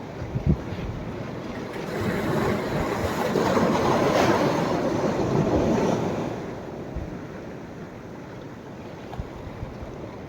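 Sea waves breaking on the shore as the tide comes in: one wave swells from about two seconds in, peaks, and washes out by about six and a half seconds. A few short low wind thumps on the microphone near the start.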